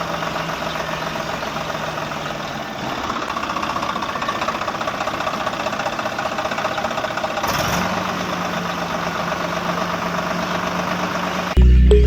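A small motor running steadily with a fast, even knocking texture, its low hum dropping away about three seconds in and returning a few seconds later. Music comes in just before the end.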